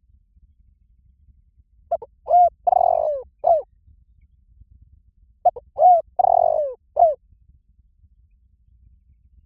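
Spotted dove cooing: two phrases of four notes each, the third note the longest, about three seconds apart.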